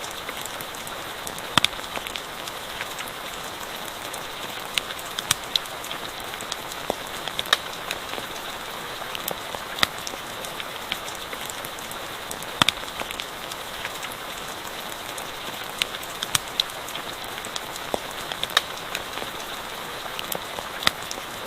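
Steady rain hissing, with irregular sharp pops and crackles from a campfire scattered through it.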